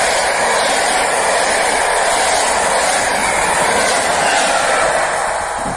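Passenger train coaches passing close by at speed: a steady, loud rush of wheels on rails that begins to ease near the end as the last coaches go by.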